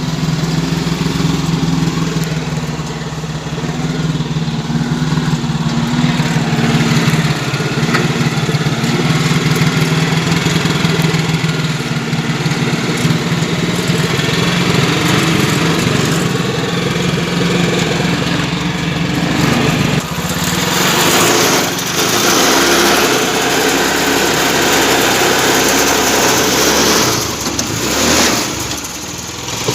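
Small tractor engine running steadily under load. About 20 seconds in, the sound changes to a higher, rougher engine noise without a clear steady note.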